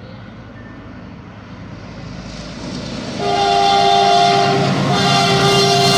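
Approaching diesel freight locomotive and its double-stack container train, a rumble growing steadily louder. About three seconds in, the locomotive's horn sounds loudly on several tones at once, breaking briefly before sounding again.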